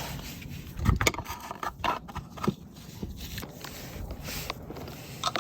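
Oil filter wrench and its extension scraping and clicking against the oil filter as they are fitted and worked, with a few sharp metal knocks.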